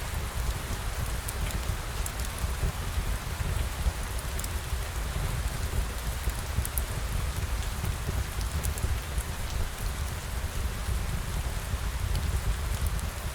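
Steady rain falling, an even hiss over a deep low rumble, with scattered sharp ticks of drops.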